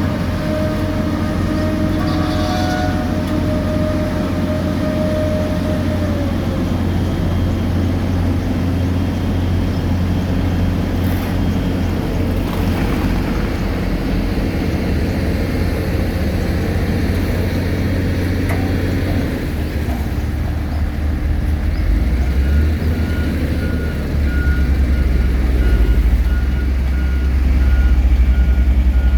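Diesel engines of road-paving machinery running steadily, growing louder in the last few seconds, with a reversing alarm beeping from about two-thirds of the way through.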